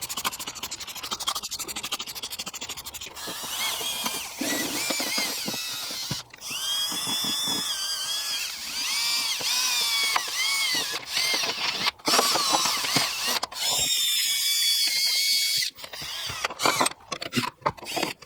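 Drill spinning a detailing brush against a greasy engine bay: a motor whine that rises and falls with the trigger over a scrubbing noise, stopping and starting abruptly several times.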